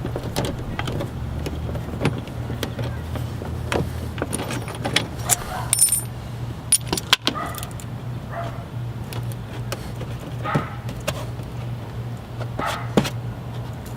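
Irregular clicks, knocks and light rattles of a screw being backed out and a plastic mudflap being worked free and handled, over a steady low hum.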